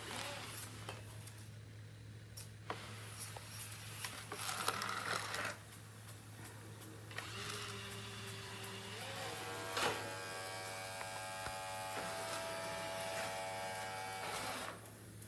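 Dreame D20 Pro Plus robot vacuum's motor buzzing with scattered clicks. About nine seconds in a whine rises in pitch, holds steady as several tones, then cuts off suddenly near the end.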